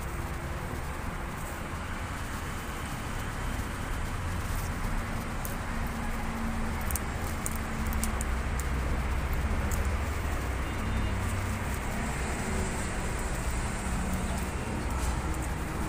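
Steady low outdoor rumble with a few faint short clicks, swelling slightly in the middle.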